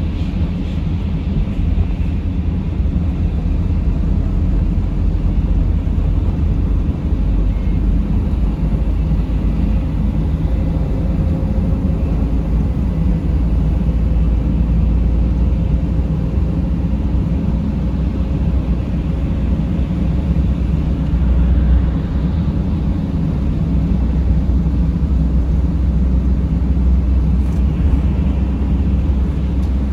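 Steady low rumble of a vehicle driving, heard from inside the cabin: engine and tyre noise.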